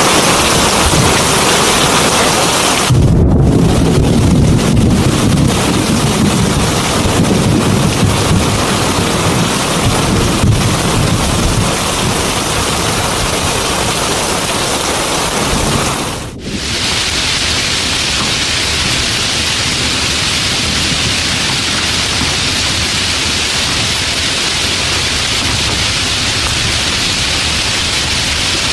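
Heavy rain pouring steadily, with a low rumble of thunder that comes in a few seconds in and dies away before the halfway point. The sound drops out for an instant a little past halfway, then the rain hiss carries on evenly.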